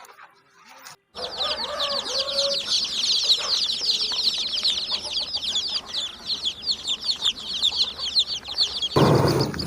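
A crowd of chicks peeping rapidly and continuously, many high calls overlapping, with a few lower hen-like clucks in the first seconds. The chorus starts about a second in and cuts off near the end as a louder, lower sound begins.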